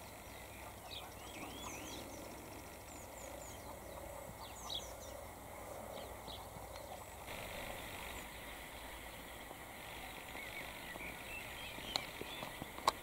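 Small birds calling: short high chirps and whistled glides scattered throughout, over a steady background hiss, with a couple of sharp clicks near the end.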